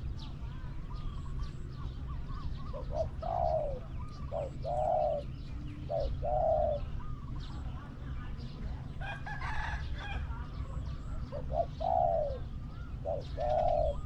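Spotted doves cooing: two runs of low, repeated coo phrases with a pause between them, over a steady low rumble and faint chirps of small birds.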